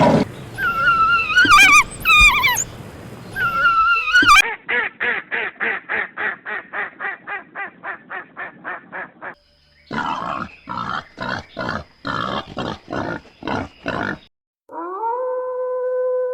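A run of different animal calls: warbling, wavering high calls for the first four seconds, then two runs of rapid grunting pulses, about four a second, the first fading away. Near the end a single steady pitched call begins.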